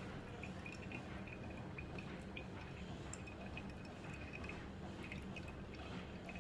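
Home espresso machine brewing, with coffee dripping into the cup: small, irregular drips and ticks over a low steady hum.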